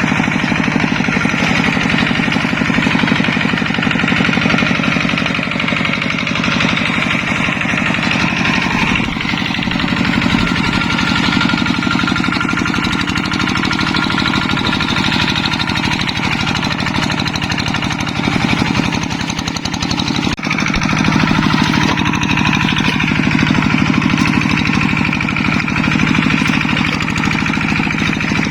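Yanmar tractor's diesel engine running steadily under load, with a fast even chugging, while plowing a flooded rice paddy. The sound dips briefly about twenty seconds in, then carries on.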